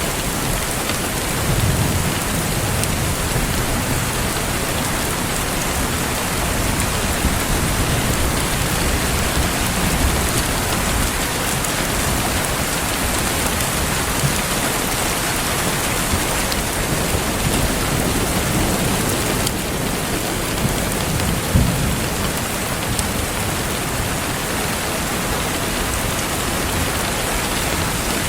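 Steady rain falling. A few low rumbles and a few isolated sharp pops stand out from it.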